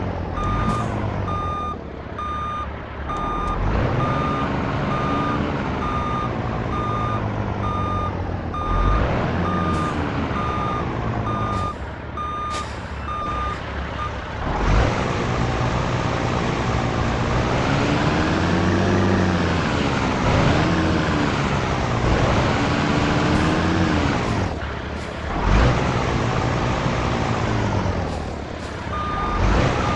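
Heavy truck's diesel engine running, its pitch rising and falling as it is revved during slow manoeuvring, with a reversing beeper sounding a steady run of short beeps for about the first half and again near the end. A few brief sharp noises are heard in between.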